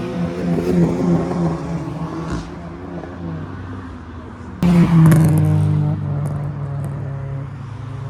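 Car engines: one runs with a pulsing, throbbing note, then about four and a half seconds in a car's engine suddenly comes in loud under throttle and holds a steady, strong note as it drives off.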